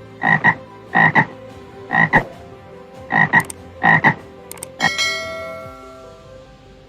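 An animal calling in short double notes, five times at about one a second. About five seconds in a single bell-like chime rings out and fades.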